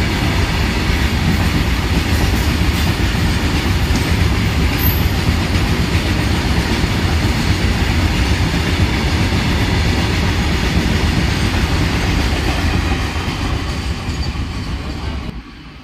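Freight train of open wagons rolling past on the track, a loud steady rumble of wheels on rails. It eases off as the last wagons go by and drops away sharply just before the end.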